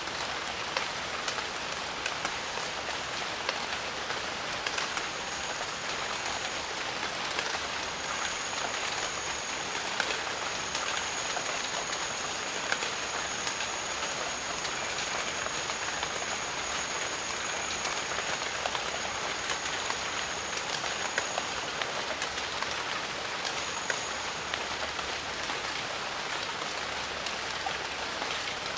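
Steady heavy rain, a dense even hiss dotted with many sharp individual drop hits. A thin, high, steady whine comes in about five seconds in, holds until about twenty-one seconds, and returns briefly near twenty-four seconds.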